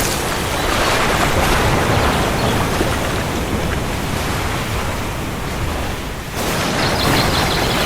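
Steady heavy rain with low rumbling thunder underneath. Near the end the sound thins briefly, then comes back abruptly at full strength.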